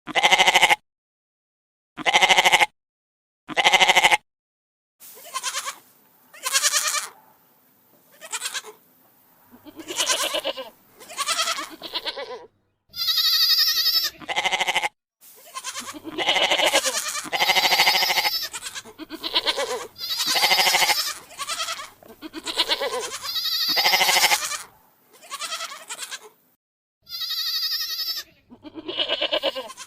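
Goats bleating over and over: three short bleats about two seconds apart with dead silence between them, then a close run of longer bleats, a few of them higher-pitched.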